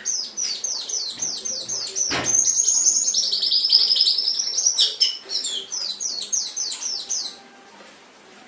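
Domestic canary singing a fast series of repeated high, down-slurred notes that run into a rapid rolling trill in the middle, then stop about seven seconds in. There is a brief knock about two seconds in.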